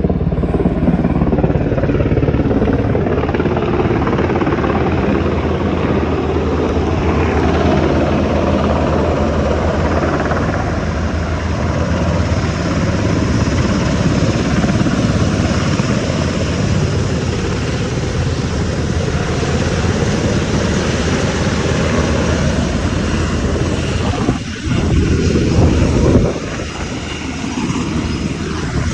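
Firefighting helicopter flying close by: a loud, steady rapid beat of its rotor blades, dipping and swelling briefly near the end.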